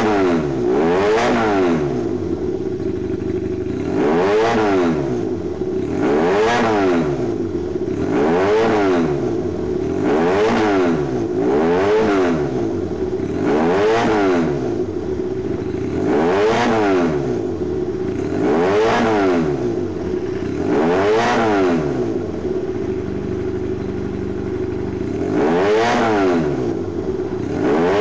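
Honda CB250T with a 400 cc parallel-twin engine, revved in repeated short throttle blips about every two seconds, falling back to idle between each. Near the end it idles for a few seconds before one more blip.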